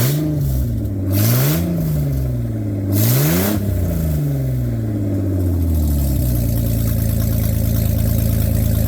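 Straight-piped 1996 Audi A4 Quattro 2.8-litre 12-valve V6, exhaust open at the bottom of the downpipes, revved three times. Each rev climbs and falls, and the two higher ones bring a loud raspy blast. About six seconds in it settles back to a steady idle.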